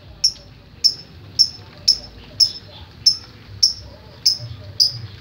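Lovebird singing in the 'ngetik' style: sharp, high, short chirps repeated evenly about twice a second, like typing.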